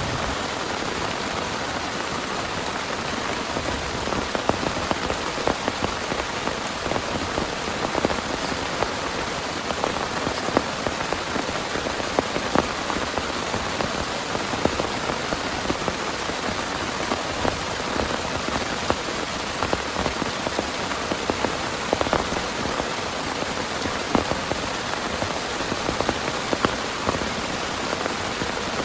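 Heavy rain falling steadily, with frequent sharper individual drops striking close by.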